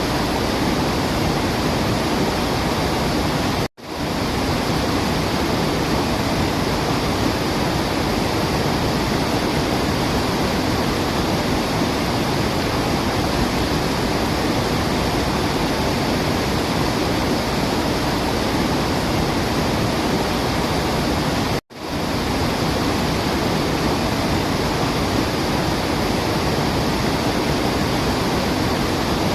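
Steady rushing of a waterfall, an even wash of water noise. It cuts out abruptly twice, about four seconds in and again near twenty-two seconds, and swells back within a moment each time.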